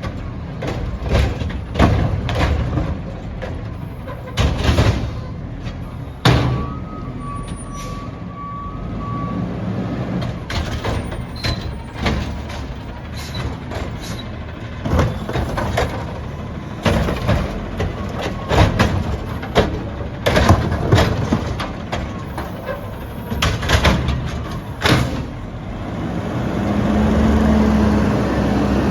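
Recycling garbage truck at work: its engine running under a string of sharp crashes and clatters as recyclables are tipped into the hopper. A short run of beeps sounds about a quarter of the way in, and near the end the engine revs up and holds, as for the hydraulic packer or lift.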